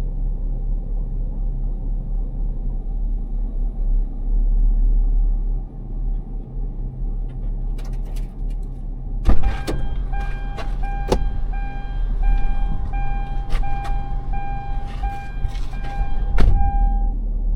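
Steady low rumble of a vehicle, joined about halfway through by clicks and knocks and a steady electronic warning tone with short breaks in it, which stops shortly before the end.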